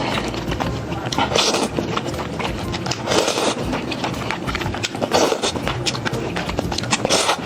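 Close-miked eating of noodles: wet slurping and chewing with lip-smacking clicks, a louder slurp or mouthful about every two seconds.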